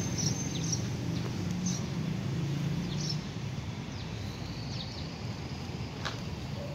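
Scattered short, high chirps of small birds, several falling in pitch, over a low steady hum.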